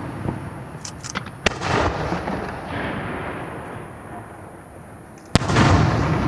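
Aerial fireworks shells bursting. A few small crackles come about a second in, then a sharp bang with a rumbling echo. A louder bang near the end is followed by a rolling rumble.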